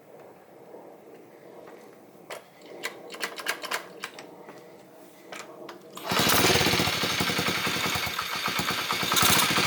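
Light clicks and handling noises, then about six seconds in the Honda CRF50's small single-cylinder engine spins over fast, loud and rapidly rhythmic, for about four seconds before it stops.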